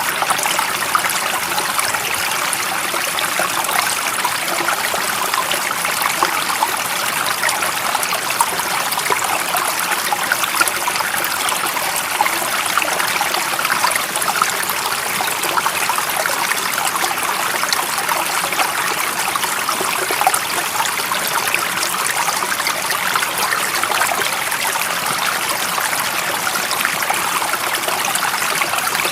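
Stream water flowing steadily: an even, unbroken hiss of running water, bright, with little deep rumble.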